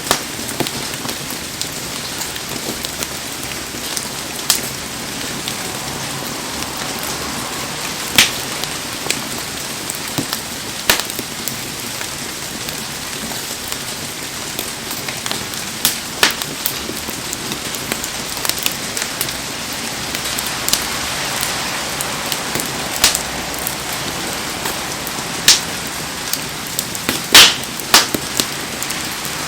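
Heavy rain falling steadily, with a sharp pop every few seconds; the loudest pops come as a pair near the end.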